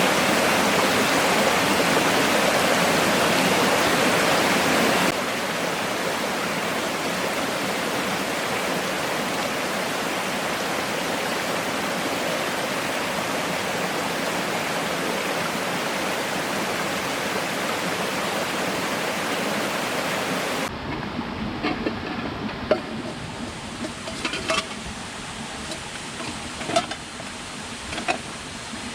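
Steady, even rushing of water, loud at first and dropping suddenly to a lower level about five seconds in. About twenty seconds in it gives way abruptly to a quieter background with scattered light clicks and knocks.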